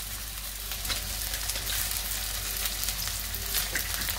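Sliced onions and garlic sizzling steadily in hot oil in a steel wok, with scattered small crackling pops.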